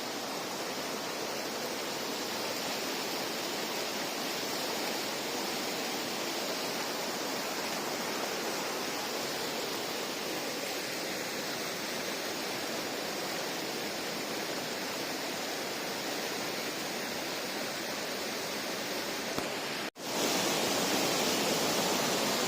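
Steady rush of the Dades river's flowing water. It drops out for an instant about twenty seconds in and comes back louder.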